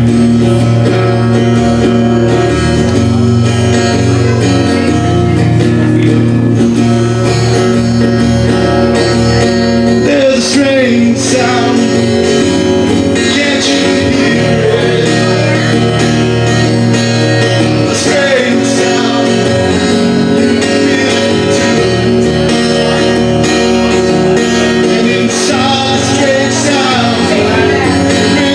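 Live band music, loud and steady, led by guitar over a bass line, with bending lead lines in the middle of the passage.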